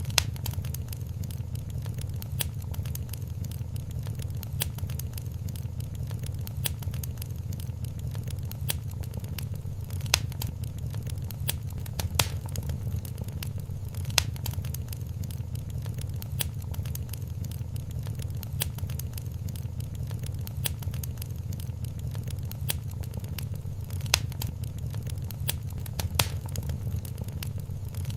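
Wood fire crackling in a fireplace: a steady low rumble of flames under frequent small crackles, with a few louder pops spread through.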